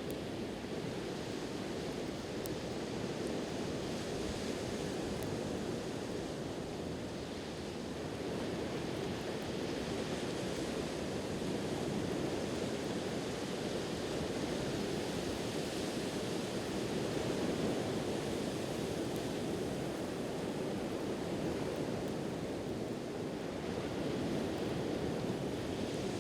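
Ocean surf washing on the shore, a steady rush that swells and ebbs slowly, with a few faint crackles from a bonfire.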